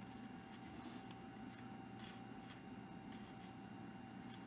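Trading cards being flipped through by hand, a faint soft swish every half second or so as each card slides off the stack, over a steady faint hum.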